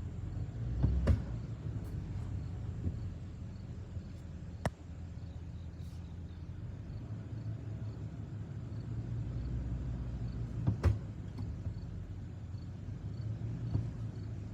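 A truck engine runs steadily at low revs while it pulls slowly on a strapped shed. Sharp cracks of bush branches breaking under the strain come about a second in and again near the end, with smaller snaps between. Insects chirp faintly in the background.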